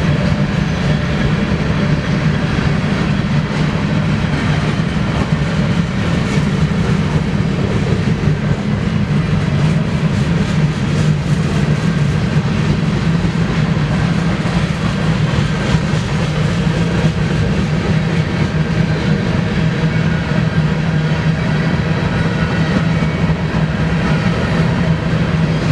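Freight cars of a long grain train rolling past at speed: a steady, unbroken rumble of steel wheels on the rails.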